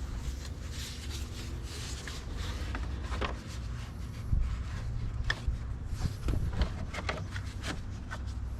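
Body panels of a John Deere 3038e compact tractor being handled and fitted back on: scattered clicks, knocks and rubbing squeaks of panels and fasteners, over a low steady hum.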